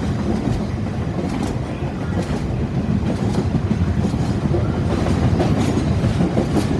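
Long freight train's wagons rolling past, the wheels clacking over the rail joints in an uneven rhythm over a heavy rumble. It grows slightly louder in the second half.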